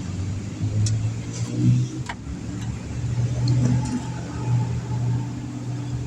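A motor vehicle's engine running steadily close by, its low hum swelling and easing, with a few faint clicks over it.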